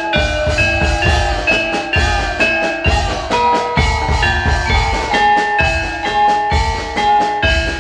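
Javanese gamelan music: metallophones ring out a stepping melody, note after note, over regular low drum beats.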